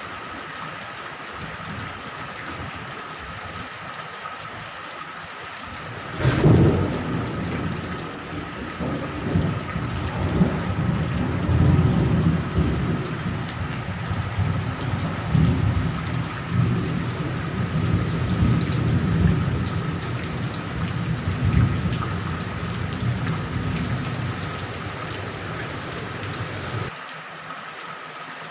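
Steady rain with a thunderclap about six seconds in, followed by thunder rumbling for about twenty seconds, swelling and fading, before it cuts off suddenly near the end.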